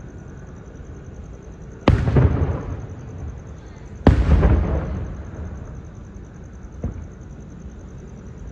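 Aerial fireworks bursting: two loud booms about two seconds apart, each trailing off in a rumble and crackle for about a second, then a fainter pop near the end.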